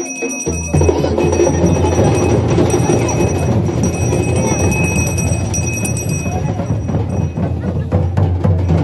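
Drumming with bells ringing: a loud, dense beat starts about half a second in and keeps going, with bell tones ringing over it.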